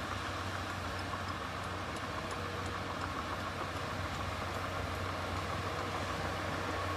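Heavy diesel engine running steadily with a low, even drone and no change in pitch.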